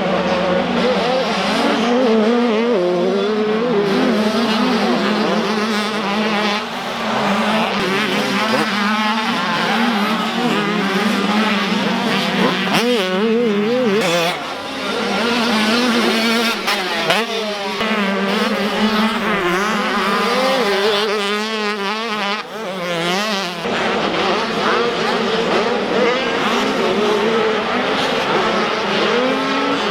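Motocross dirt bike engines racing on a track, several at once, revving up and down over and over through throttle changes and gear shifts.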